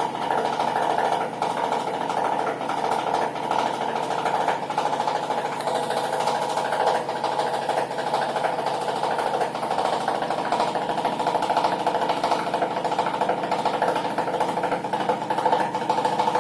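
LG F1296HDS3 front-loading washing machine in its spin cycle, with a rapid, steady knocking from inside the machine as the drum spins.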